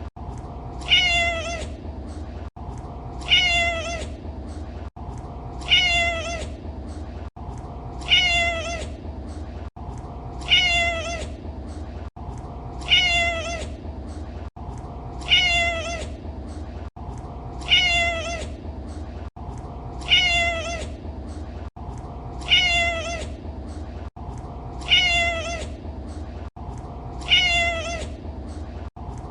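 A cat meowing: one short, high meow about every two and a half seconds, the identical call repeated as a loop, with a brief dropout between repeats and a steady low hum underneath.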